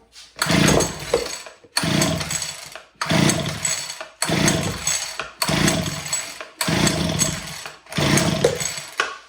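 Homelite HT17 hedge trimmer's two-stroke engine being pull-started seven times in a row, each pull lasting about a second, cranking over on choke without catching. The engine fails to start, which the owner takes as a sign that it may need more priming.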